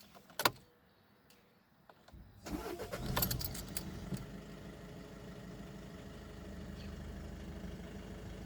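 A sharp click, then about two seconds later a VW Golf 7 engine cranks briefly, catches and settles into a steady idle.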